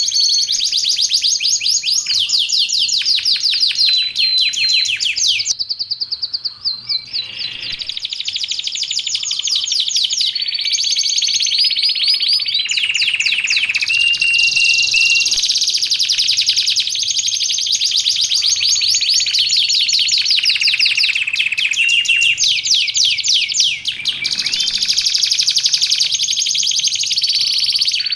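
Domestic canary singing a long, unbroken song of rapid high trills, each a fast run of repeated notes, switching to a new trill every second or two, with a brief softer, lower passage partway through.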